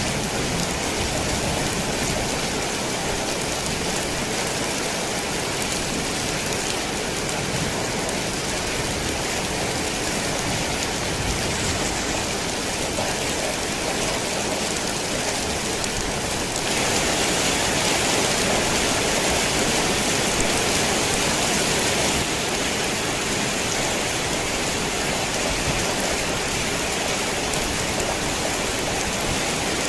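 Heavy rain falling steadily on a worn tin roof. It gets louder for about five seconds past the middle, then settles back.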